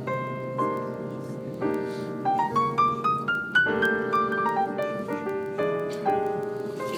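Piano music playing a flowing melody of struck notes, with runs that climb about two seconds in and fall back soon after.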